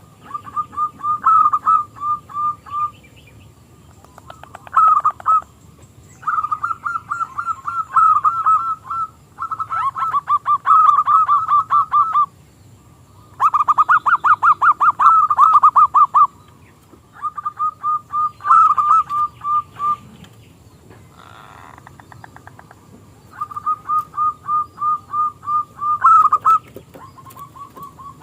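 Zebra dove (perkutut) cooing: a run of rapid, pulsed notes, repeated in about eight phrases of one to three seconds each, with short pauses between them.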